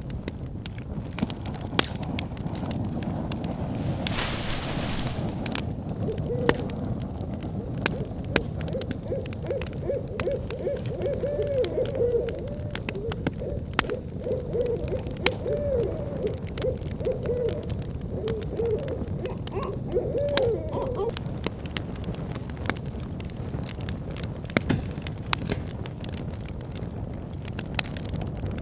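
Bonfire crackling and popping, with many sharp snaps over a steady low rumble and a brief hiss a few seconds in. Through the middle, an owl hoots in a long run of wavering calls.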